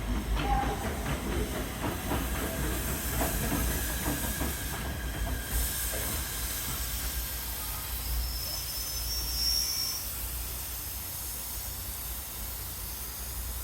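PATH commuter train running on the rails, with a low rumble and a steady hiss. Rapid wheel-on-rail clicks run through the first half, and a brief high thin whine comes about nine seconds in.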